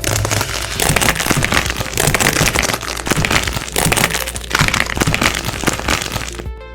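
Hardened wax coating on squishy toys being squeezed and cracked: a dense, continuous crackling and crunching that swells about once a second.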